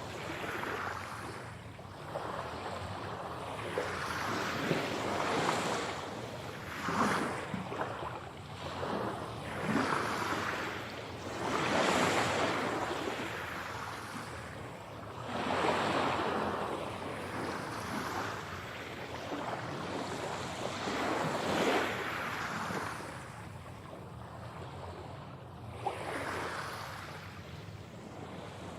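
Ocean waves breaking and washing on a shore, one surge of surf every few seconds.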